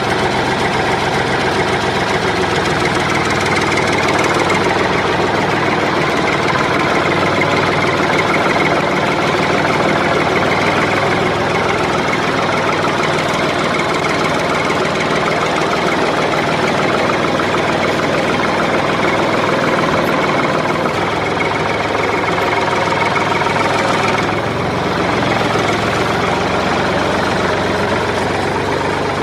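Tractor engine sound running steadily with a knocking beat, dipping slightly about three-quarters of the way through.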